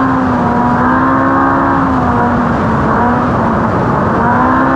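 Ultra4 off-road race car's engine running at high revs under way, its pitch sagging about three seconds in and climbing again near the end as the throttle comes back on.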